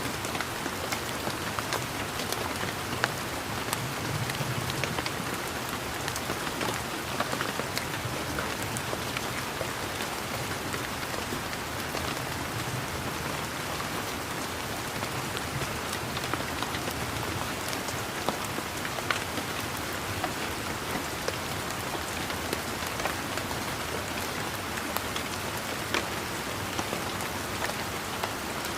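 Steady rain falling on leaves and the ground, an even hiss with many sharp individual drop hits scattered through it.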